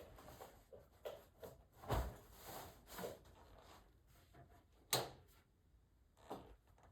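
Scattered light knocks and taps, with a heavier thud about two seconds in and a sharp click about five seconds in.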